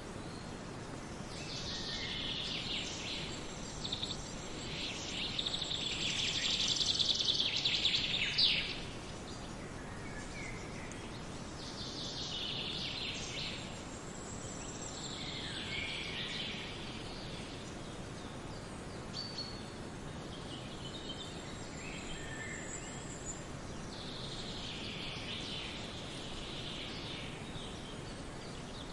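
Songbirds singing in a forest, in several high, fast, trilling phrases, with the longest and loudest phrase about a quarter of the way in and others coming and going after it, over a steady background hiss.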